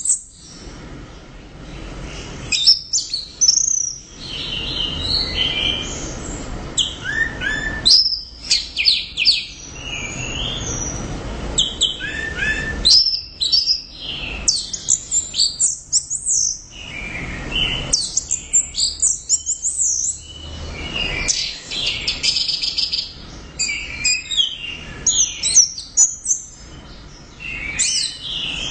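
Orange-headed thrush (anis merah) singing loudly and almost without pause: fast, varied phrases of high chirps, rapid repeated notes and trills, broken by short gaps.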